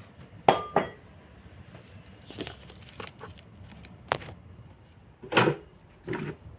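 Irregular knocks and clacks of objects being handled, about seven in all, with a sharp double knock about half a second in.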